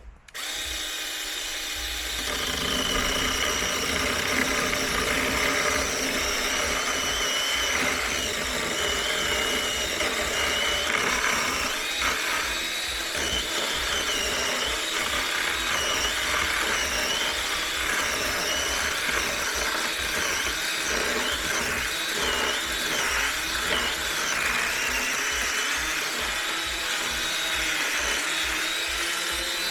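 Small electric chainsaw starting up just after the start and cutting into a fallen tree. Its motor whine wavers in pitch as the chain bites the wood.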